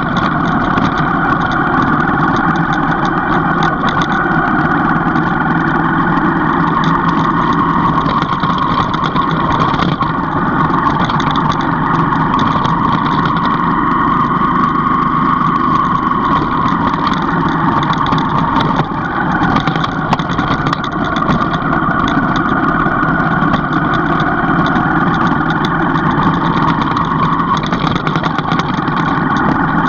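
Vehicle engine running steadily while driving, its pitch rising and falling slowly with the throttle. It eases off briefly about two-thirds of the way through.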